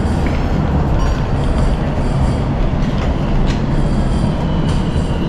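Subway train running through the station: a loud, steady low rumble with a few sharp clicks.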